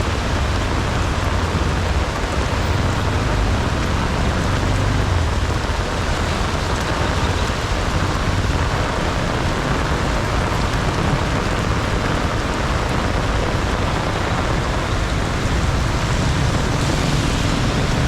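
Heavy rain pouring down in a rainstorm, a dense steady hiss with no letup.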